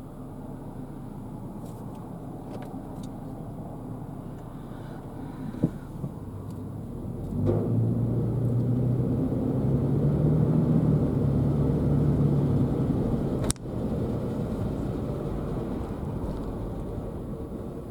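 A car driving, with steady engine and road rumble that swells and rises in pitch about seven seconds in as it picks up speed. There is a sharp click near the two-thirds mark.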